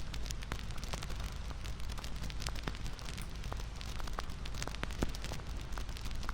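Wood fire crackling: a steady low rumble of burning with irregular sharp pops and snaps from the burning wood.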